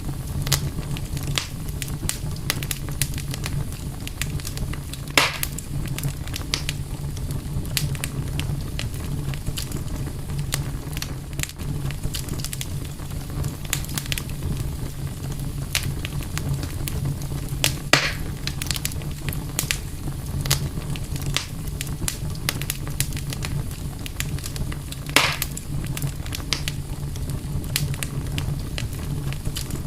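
Campfire crackling over a steady low rumble, with frequent small snaps and three louder pops: one about five seconds in, one near the middle and one about three-quarters of the way through.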